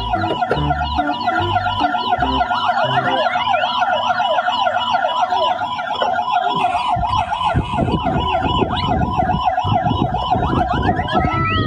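Emergency-vehicle siren in a fast warble, rising and falling about four to five times a second, with other sliding whistle-like tones over it. It winds down in a falling glide near the end.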